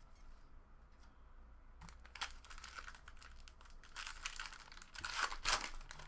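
Crinkly plastic-foil wrapper of a trading card pack being torn open and crumpled: rapid crackling bursts that start about two seconds in and are loudest near the end.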